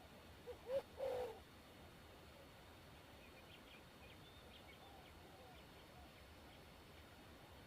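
Dove cooing: a few short, low coos about a second in, then faint high chirps from small birds.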